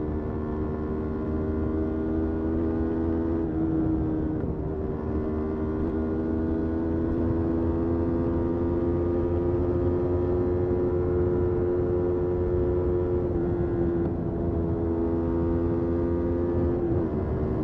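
Motorcycle engine running steadily under way, its pitch climbing slowly and dropping in small steps about three and a half seconds in, around thirteen seconds in, and near the end.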